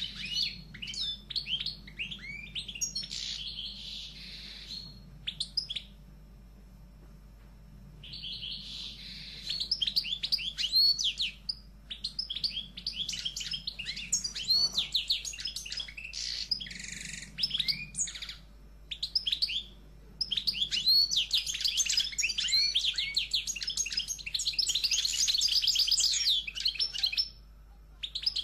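Songbirds chirping and trilling in quick, dense runs of high notes, with a break of about two seconds near the start and another short one near the end.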